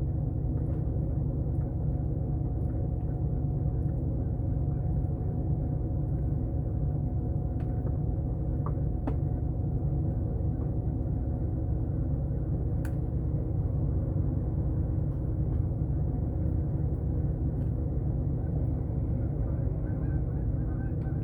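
An engine running steadily at an even idle-like pace, with a deep rumble and a few faint clicks.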